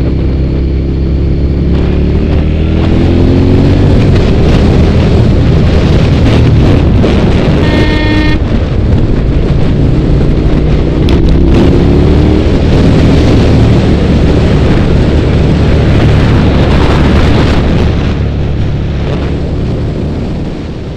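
Suzuki SFV650 motorcycle's V-twin engine running under way, with steady wind rush on the microphone. The engine note rises as it accelerates a couple of seconds in and again at about ten to twelve seconds. A brief high tone, like a horn, sounds about eight seconds in.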